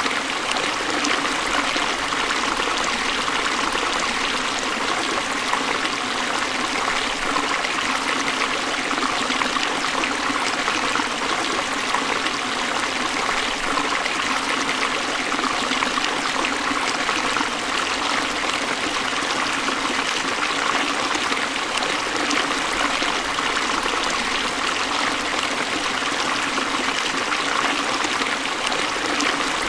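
Forest stream flowing steadily over rocks, a constant trickling and rushing of water.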